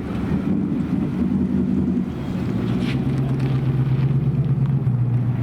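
Car engine idling with a steady low tone, which drops and settles lower about three seconds in.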